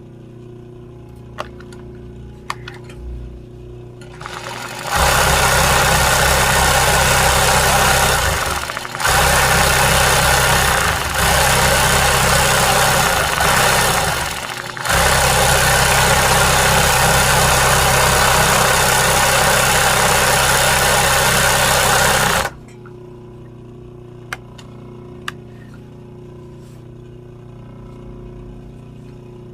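Sewing machine stitching in three long runs, with two brief stops, starting about five seconds in and stopping about three-quarters of the way through; a few faint clicks in the quieter stretches before and after.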